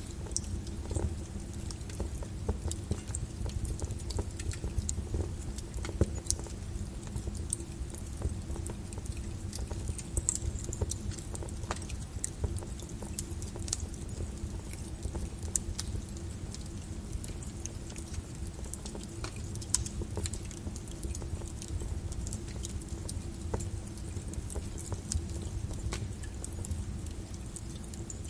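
Rain and fireplace ambience: a steady rush of rain on a window under the crackle of a log fire, with many scattered sharp pops.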